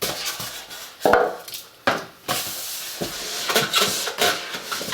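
Cardboard box and packaging being handled: a couple of sharp knocks in the first two seconds, then steady rustling and scraping with small clicks.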